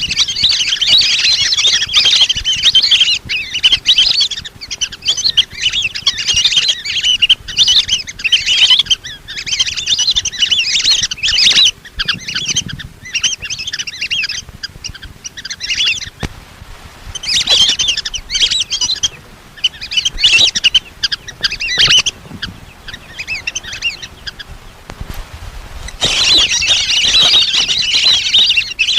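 Lesser whistling ducks calling: a dense chorus of high, whistled chattering calls in bouts, easing off about twelve seconds in and again around twenty-two seconds before picking back up near the end.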